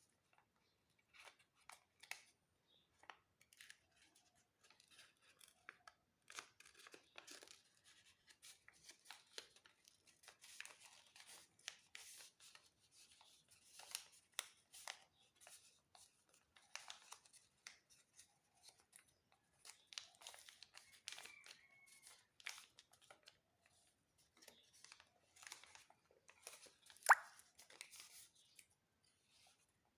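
Sheet of paper being folded and creased by hand: faint, irregular crinkles and rustles, with one sharper crackle near the end.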